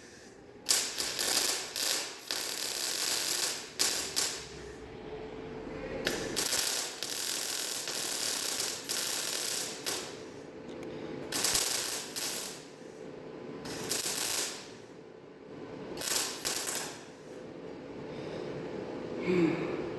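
Arc welder tack-welding steel patches on a metal deer stand: a series of noisy bursts, each one to several seconds long, with short pauses between them.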